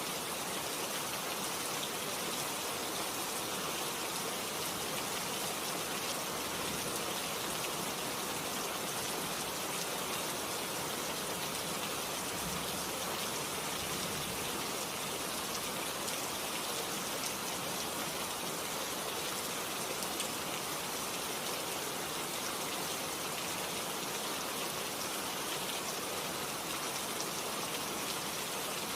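Steady rain falling, a dense even hiss of drops with no breaks or changes.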